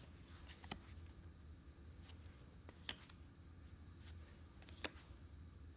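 Near silence: room tone with a steady low hum and three faint, short clicks spread through the pause.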